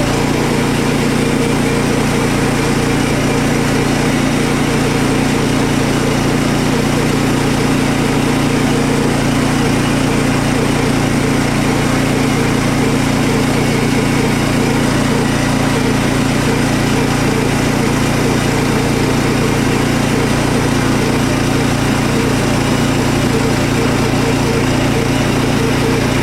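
Portable sawmill's engine running steadily under load as the saw cuts a pine board into lap siding.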